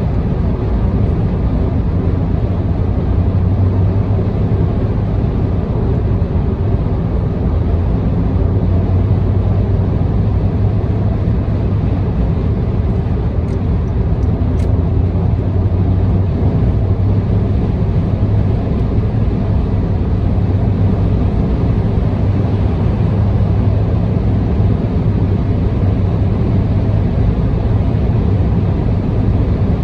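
Steady engine and tyre noise of a car cruising on an expressway, heard from inside the car, dominated by a low hum.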